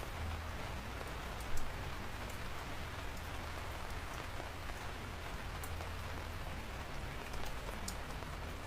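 Steady rainfall, an even hiss of rain with scattered sharp ticks of individual drops landing close by, and one louder drop hit about a second and a half in.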